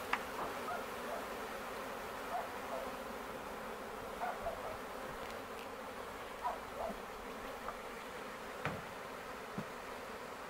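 Honey bees buzzing in a steady hum, with a few faint short knocks.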